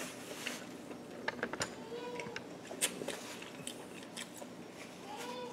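A person chewing a mouthful of tender smoked beef, with faint wet mouth clicks and two short hummed 'mm's, one about two seconds in and one near the end.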